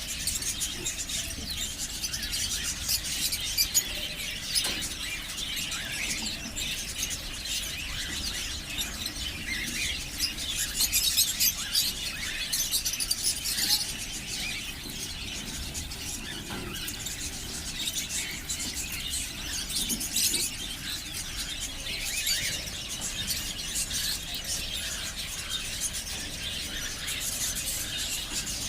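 Budgerigars and cockatiels chirping and squeaking together, a dense, continuous chatter of short high calls.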